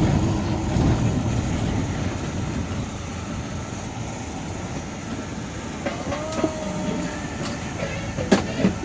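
Low, steady road rumble of a tour van heard from inside the cabin. It eases off over the first few seconds, and a few sharp clicks and short tones come in the last few seconds.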